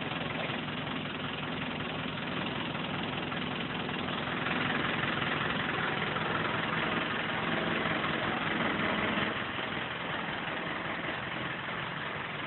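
Land Rover 200Tdi four-cylinder turbo-diesel engine idling steadily, a little louder from about four seconds in until about nine seconds.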